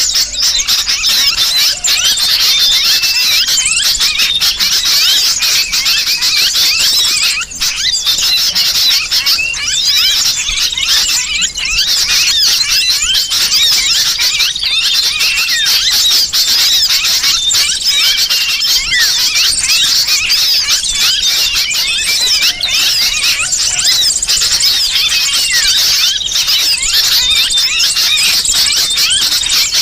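Bird-lure recording of many small birds calling at once: a dense, unbroken chatter of rapid high chirps. It mixes the agitated calls of sooty-headed bulbuls (kutilang) with the distress calls of a trapped bird, a blend meant to draw small birds in.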